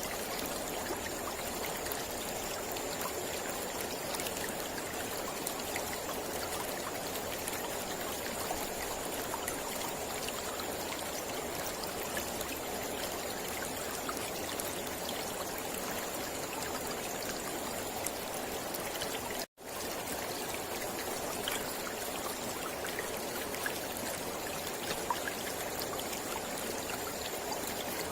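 Mountain river flowing steadily, an even rush of water with small splashes, cut by a brief dropout to silence about two-thirds of the way through.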